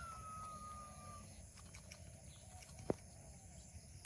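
A single long whistled bird call that slides slowly down in pitch and ends about a second in, then one sharp click about three seconds in, over a faint low background rumble.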